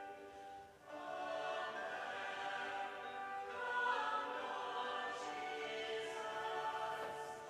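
Choral sacred music: voices singing long held phrases, with a brief breath between phrases about a second in.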